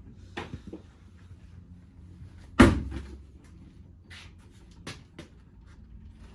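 A single loud thump about two and a half seconds in, with a few lighter knocks and clicks before and after it.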